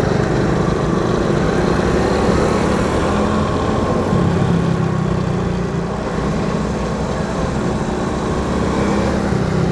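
Suzuki Shogun 110 ('Kebo') motorcycle's single-cylinder four-stroke engine running steadily as it is ridden along a town street.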